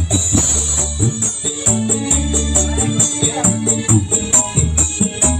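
Music with a heavy bass line and a steady shaker-and-drum beat, played through a miniature speaker sound system under test.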